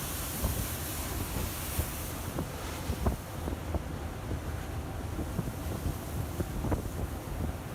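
Storm wind buffeting the microphone on a fishing vessel in rough seas, over the steady rush of heavy waves. Short knocks and thumps come here and there, the clearest about three seconds in and again near the end.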